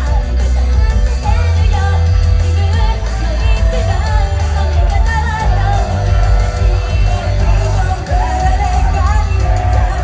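Live pop band music with a sung lead vocal over a heavy, steady bass line.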